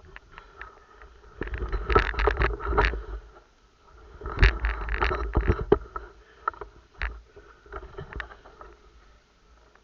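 Rustling and knocking of movement on the microphone, in two loud spells of irregular knocks with a heavy low rumble, the first about a second and a half in and the second about four seconds in.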